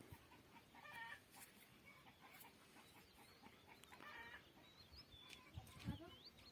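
Faint chicken clucking, with short calls about a second in and again about four seconds in, and scattered faint small-bird chirps. A brief low thump near the end is the loudest moment.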